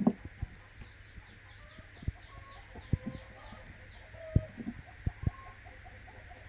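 Chickens clucking, with a quick run of about ten falling high chirps between about one and three seconds in. Scattered sharp clicks and knocks, the loudest at the very start and just past four seconds.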